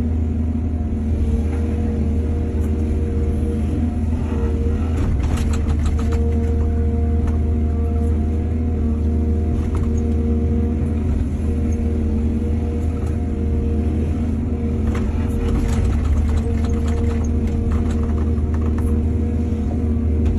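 Heavy diesel engine of an excavator running steadily, with bursts of clattering about five seconds in and again from about fifteen to nineteen seconds in.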